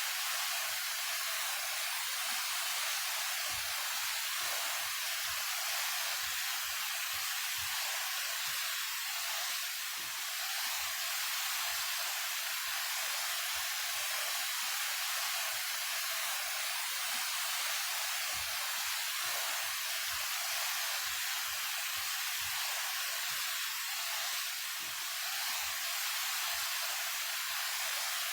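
Daehye Falls, a 28 m waterfall, pouring steadily: an even, hissing rush of falling water, strong in the upper range with little low rumble.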